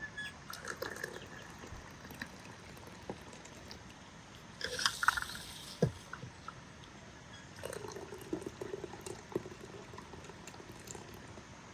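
Liquid being poured and dripping, among small clicks and handling noises, with a brief louder splash about five seconds in and a single knock just after it.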